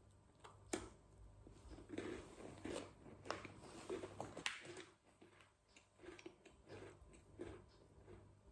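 Biting into a Mulino Bianco Intrecci biscuit made with wholemeal flour, chocolate chips and buckwheat. There is a sharp bite under a second in, crunchy chewing for the next few seconds, then softer chewing after about five seconds.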